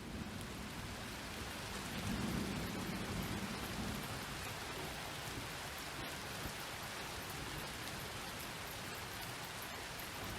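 Steady rain falling, with a low rumble of thunder swelling about two seconds in and fading by about four seconds.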